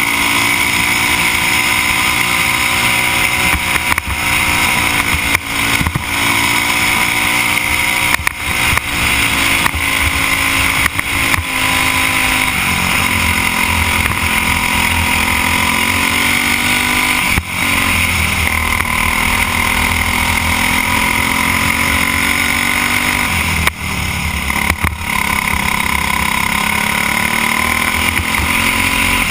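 Briggs & Stratton Animal single-cylinder four-stroke kart engine running hard in a race. Its pitch dips as the kart slows for corners and climbs again on the straights, with other karts' engines mixed in.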